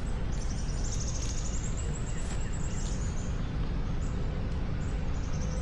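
A songbird singing a rapid, high trill of repeated notes lasting about two and a half seconds, with a few shorter high calls afterwards, over a steady low outdoor rumble.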